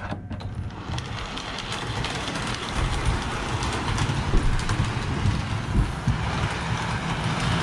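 Model steam train running along its track: a steady clattering rumble of wheels on rail with many small clicks, starting just after the start. The throttle is set too high on power.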